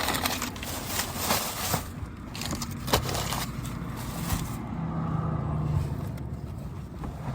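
Objects being handled and moved about inside a car: rustling and scraping with a sharp click about three seconds in. After that a low steady hum carries on under quieter handling.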